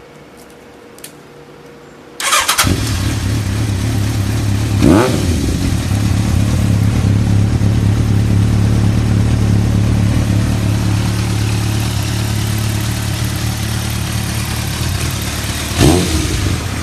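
Kawasaki ZRX1200R's inline-four cranked by its electric starter and catching on the first try about two seconds in, then idling steadily through an Akrapovic aftermarket exhaust. Two short throttle blips, one about five seconds in and one near the end.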